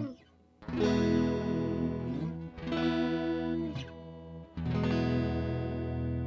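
Electric guitar played through a JHS 3 Series Flanger pedal: three chords struck about two seconds apart, each left to ring out while the flanger sweeps through it with a whooshing, jet-like swirl.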